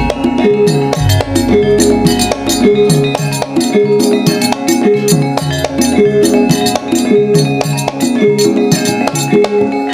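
Javanese gamelan music: metal keyed instruments repeat a quick melodic pattern over sharp drum strokes. A deep gong tone swells about a second in and again a little past halfway.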